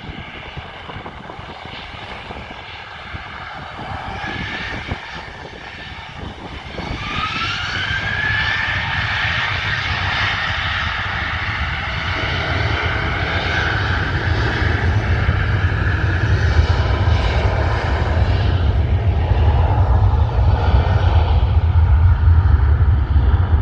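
Jet airliner engines spooling up for departure: a whine rises in pitch about seven seconds in, then a deep rumble builds and grows steadily louder as thrust comes up.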